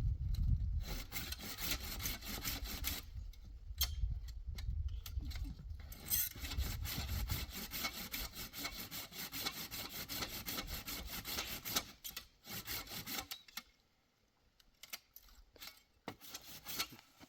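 Wood being cut with a handsaw in a quick, even run of strokes that stops about twelve seconds in, followed by a few scattered knocks.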